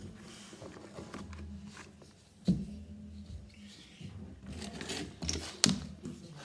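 Scattered knocks and clicks of things being handled, with a thump about halfway through and a sharp click near the end.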